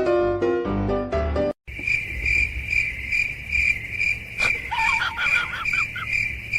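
Piano music for the first second and a half, cutting off abruptly. Then a high, even chirp repeating about two and a half times a second, the steady rhythm of a chirping insect, with a few brief, higher, wavering calls over it in the middle.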